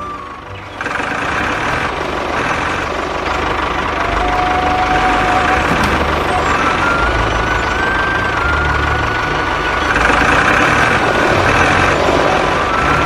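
Small engine running steadily; it gets louder about a second in, and a thin wavering whine sits over it.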